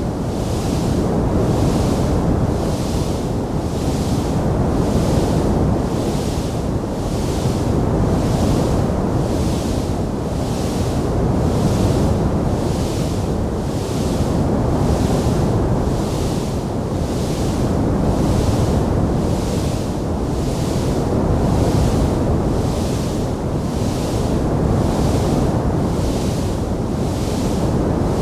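Wood fire burning in a stone fireplace: a steady, dense rushing roar, with a high hiss that pulses about once a second.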